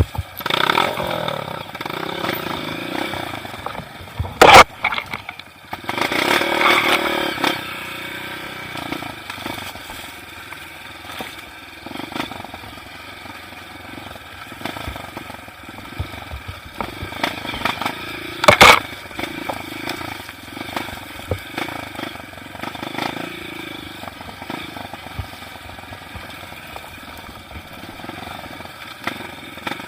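Trail motorcycle engine running and revving unevenly, its pitch rising and falling, with two sharp loud knocks, one a few seconds in and one about two-thirds of the way through.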